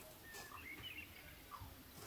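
Faint bird chirps in the background: a few short, high calls against a quiet room.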